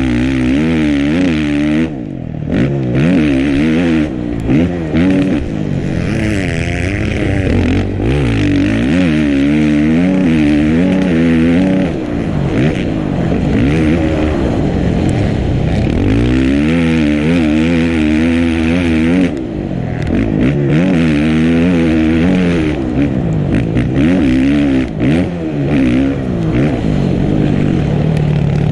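Dirt bike engine being ridden hard on a motocross track, its pitch repeatedly rising and falling as the throttle is worked through the gears, with brief drops in power about 2, 12 and 19 seconds in.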